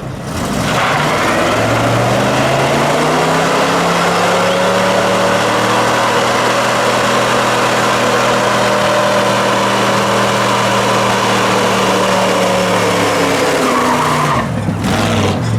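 Car doing a long burnout: the engine is held at high revs while the spinning tyres squeal, with the engine note easing off about a second before the end.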